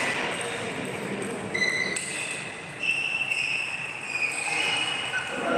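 Table tennis hall background with a few sharp ping-pong ball clicks among several short, high, steady squeaking tones.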